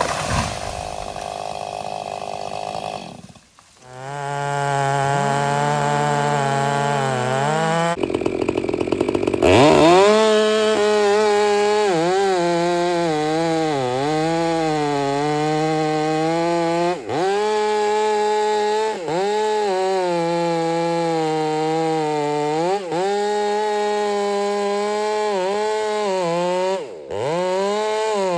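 A chainsaw runs at high revs while cutting wood, its pitch dipping again and again as the chain loads in the cut. The engine drops off briefly a few seconds in and again near the end.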